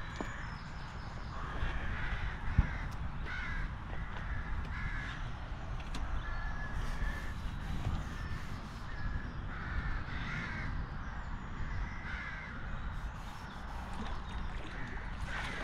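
Birds calling repeatedly, a short call every second or so, over a low rumble of wind on the microphone, with a single sharp knock about two and a half seconds in.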